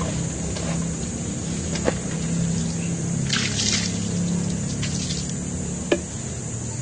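Water splashing and trickling during a motorcycle wash, over a steady low hum. There are two sharp knocks, one about two seconds in and one near the end, and a brief hiss about three and a half seconds in.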